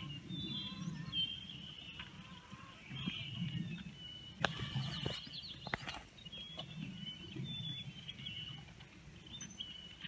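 Songbirds chirping and calling over a low rumbling background, with a few sharp knocks about halfway through.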